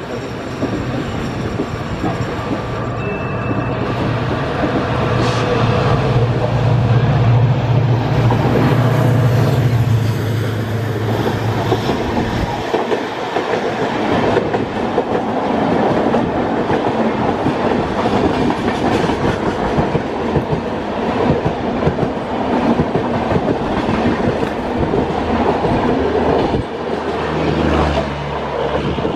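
Two passenger trains crossing at speed, heard from aboard one of them, with the wheels clattering over the rail joints. A steady deep hum, loudest from about five seconds in until about twelve, comes as the oncoming locomotive passes. After that, the other train's coaches go by close alongside with a long rushing rattle.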